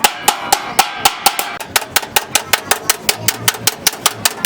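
Rapid hammer blows on the sheet metal of a car door, about five a second, each with a short metallic ring.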